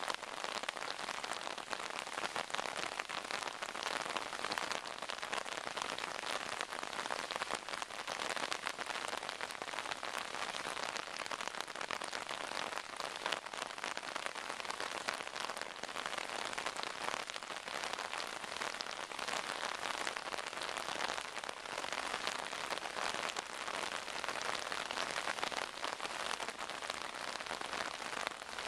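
Torrential rain falling, a steady dense hiss of countless drops that keeps up without a break.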